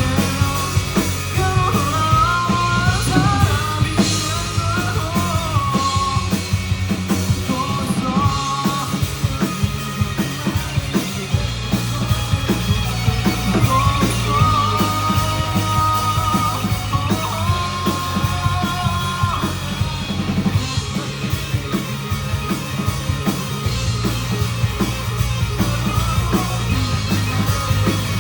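Rock band playing live at full volume, with a lead melody line that bends and then holds two long notes in the second half.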